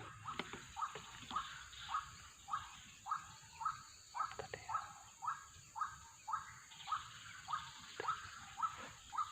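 White-breasted waterhen (kruok) calling, a short call repeated evenly about twice a second, over a steady high hiss.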